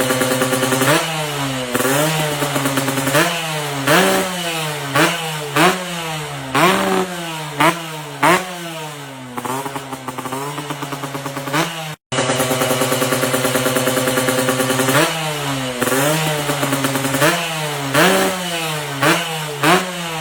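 Yamaha RX100's two-stroke single-cylinder engine idling, then revved in quick repeated throttle blips, the pitch jumping up and falling back about once a second. It cuts out briefly about twelve seconds in, then idles and blips again.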